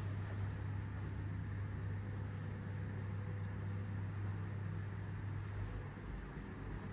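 A steady low hum over faint even background noise, like a running motor or machine.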